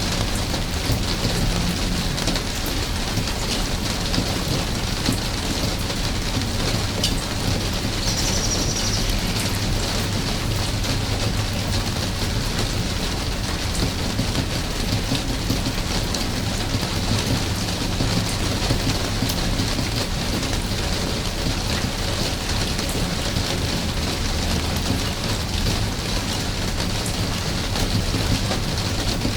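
Steady rain falling and pattering on surfaces, an even hiss with a continuous low rumble underneath. A brief high tone sounds about eight seconds in.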